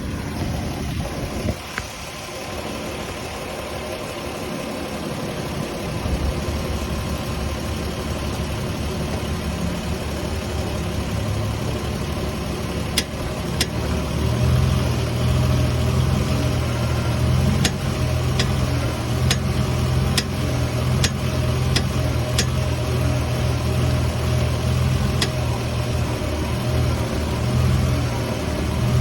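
Lexus IS300 engine running steadily, its low hum growing louder about halfway through, with a series of sharp pops, about ten in all and unevenly spaced, over the middle part: the popping noise that comes from the car when the steering wheel is turned.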